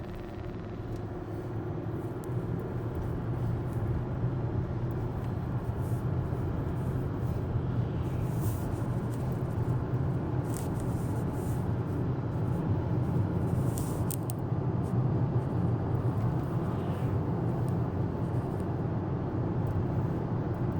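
Steady low engine and road noise inside the cabin of a moving Jaguar XJ6, getting a little louder about two seconds in, with a few faint short ticks.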